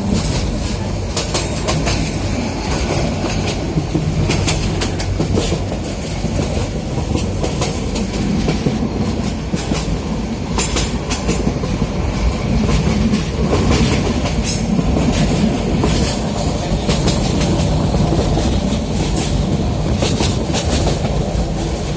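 Train running along the track: a steady rumble of wheels on rail with irregular clicking and clacking over the rail joints.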